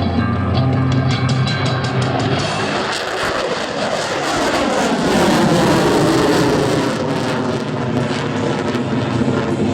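Rock music with guitar and drums plays over the public address. From about three seconds in, the loud roar of the F-22 Raptor's two F119 jet engines at full power rises in and sweeps past over the music.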